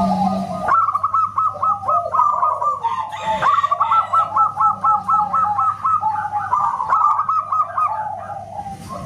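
Zebra doves (perkutut) calling: rapid series of short, repeated staccato coos, several birds overlapping.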